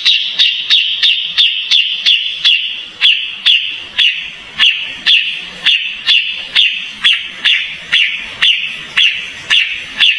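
Kapas tembak bird calling a fast, even series of short, sharp notes, each dropping quickly in pitch, about two and a half a second.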